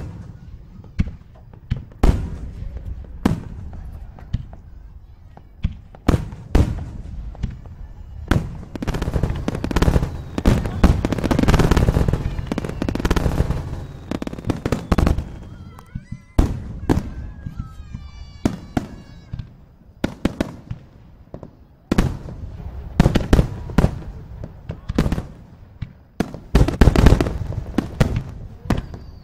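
Aerial fireworks bursting: a string of sharp bangs that thickens into rapid, overlapping bursts and crackle about ten seconds in, with a brief run of whistling tones a little past the middle and another dense volley near the end.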